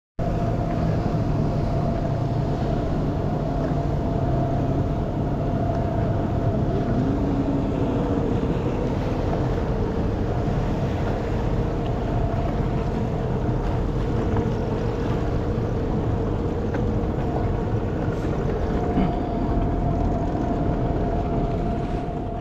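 Racing jet skis running at high revs: a steady engine whine whose pitch drifts slowly, over a low rumble.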